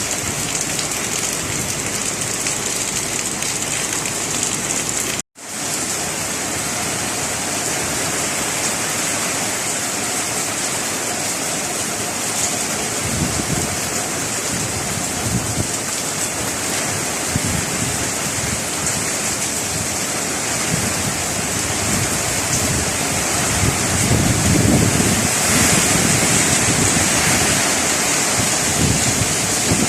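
Heavy rain pouring down steadily, with strong wind gusting as a low rumble from about halfway through, strongest near the end. The sound breaks off for an instant about five seconds in.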